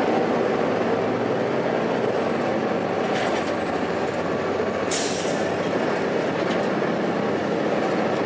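Interior ride noise of a 2002 Blue Bird 40 ft transit bus under way: its Cummins ISC diesel engine running steadily under road and cabin noise. There is a short hiss about five seconds in.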